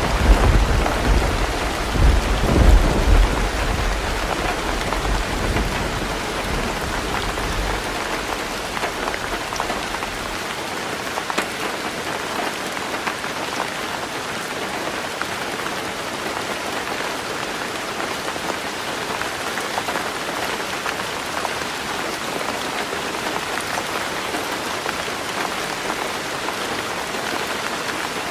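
Heavy rain pattering steadily on a roof. A clap of thunder rumbles at the start, swells again a couple of seconds in and dies away over the first ten seconds or so, leaving only the rain.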